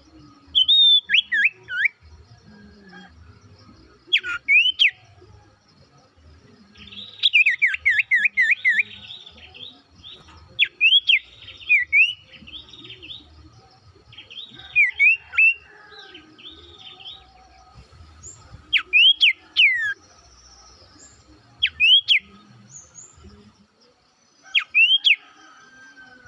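A sirtu songbird singing in loud, repeated bouts of quick, sharply sliding whistled notes, mostly swooping downward, a new phrase every few seconds. A faint steady high-pitched hum runs underneath.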